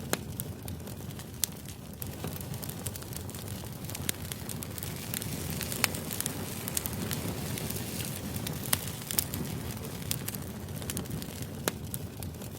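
Crackling fire: a steady low rumble with sharp, irregular pops and crackles scattered throughout, used as background noise.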